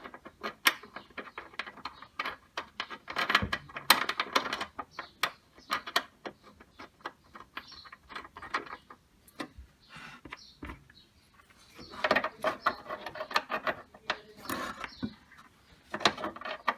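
Ratchet wrench tightening the nuts on a window air conditioner's compressor mounts, its rapid clicking coming in several runs with short pauses between them.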